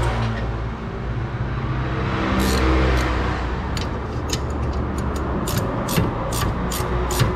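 Mercedes E200 W212's 1.8-litre four-cylinder engine running, with a short swell in revs a couple of seconds in. From about four seconds in, a regular ticking about three times a second runs over it.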